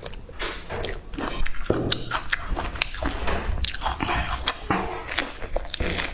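Close-miked eating sounds: chewing and biting, with crisp crackles as a lettuce leaf is folded and bitten.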